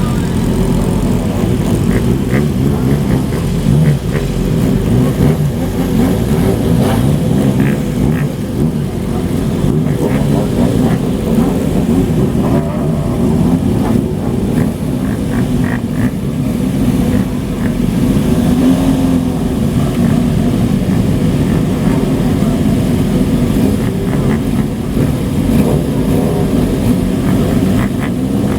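Several old motorcycles riding past one after another, their engines and exhausts loud and steady, with throttle revs rising and falling near the end.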